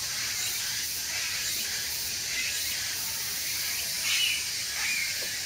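Steady high hiss of outdoor ambience, with short high-pitched bird chirps about five times, the loudest about four seconds in.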